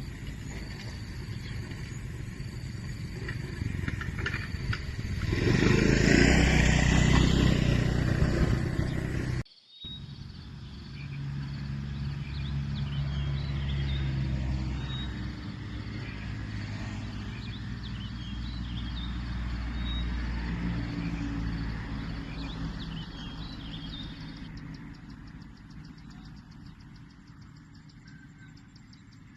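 A motor vehicle engine passing close, loudest a few seconds in. After a sudden cut, another engine hum rises and slowly fades away. Near the end a fast, rhythmic high chirring takes over.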